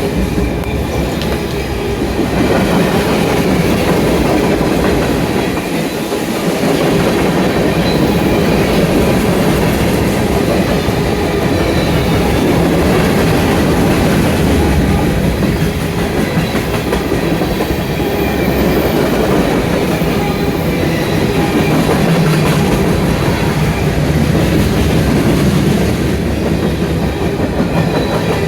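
CSX freight train's cars rolling past at close range, a steady loud clatter of steel wheels over the rail joints.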